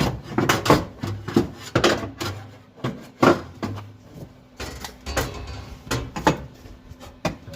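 Sheet-steel floor patch panel struck again and again, irregular knocks about two a second, each with a short ring, as the metal is formed down to fit the floor. A faint steady hum runs underneath.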